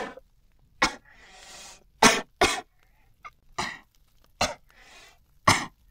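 A person coughing repeatedly: about six harsh coughs in a row, with breathy intakes between some of them.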